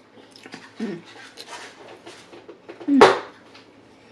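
Close-miked eating: a person chewing, with wet clicks and smacks of the mouth throughout, a short low hum about a second in, and a louder smack about three seconds in.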